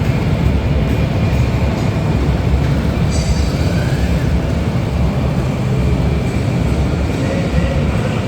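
Motorcycle engines running with a loud, steady, deep rumble.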